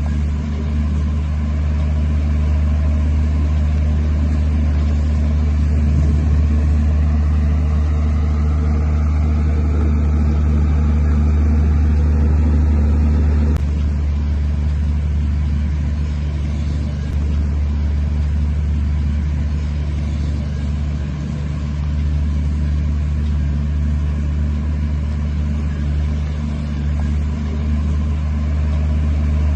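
Heavy diesel engine of earthmoving machinery running steadily, a deep continuous drone, a little louder between about 6 and 13 seconds in.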